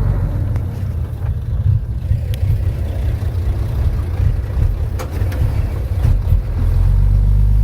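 Diesel engine of a Komatsu D31P crawler bulldozer running steadily with a deep low rumble while it works, with a few short knocks through it.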